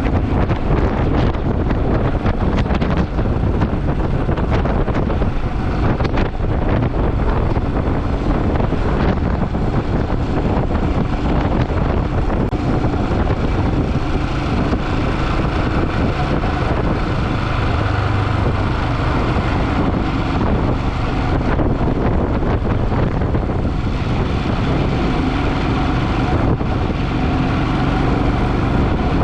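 Motorcycle riding along steadily: engine running under heavy wind buffeting on the microphone.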